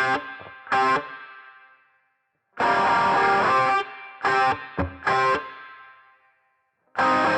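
Background music: distorted electric guitar chords struck in short stabs that ring out and fade, with one chord held for about a second and two brief silent breaks between phrases.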